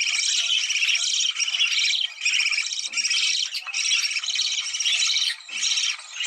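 Budgerigars chattering and warbling continuously, a dense, high-pitched twittering with a few brief breaks: the kind of budgie chatter played to bring pairs into breeding condition.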